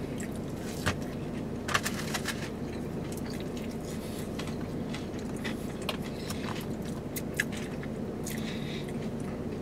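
A man chewing a mouthful of fried fish, with wet mouth sounds and a few sharp, crunchy clicks, the loudest about a second and two seconds in. A steady low hum from the vehicle runs underneath.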